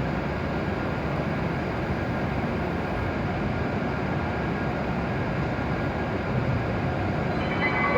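Steady hum and rush of a W7 series Shinkansen standing at the platform with its onboard equipment running. Near the end, a platform chime of several steady tones begins.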